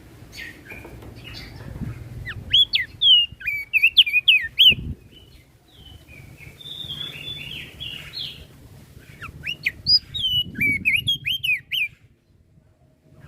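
Opior jambul (crested white-eye) singing: two bursts of quick, sharp whistled notes, each note rising and falling, with a softer chattering passage between them.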